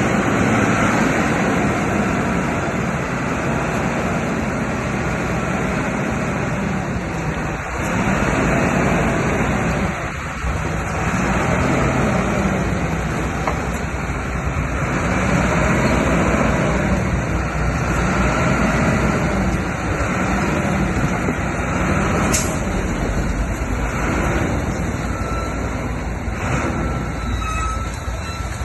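Diesel engine of heavy earthmoving machinery running continuously, its pitch swelling and falling about every two seconds as the load changes.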